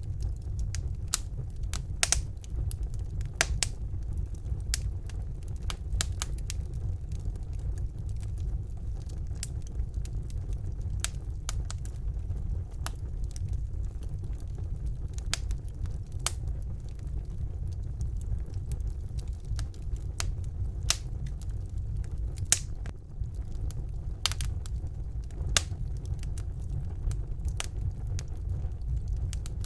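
Wood fire burning in a fireplace: a steady low rumble of the flames with frequent irregular crackles and sharper pops of burning logs.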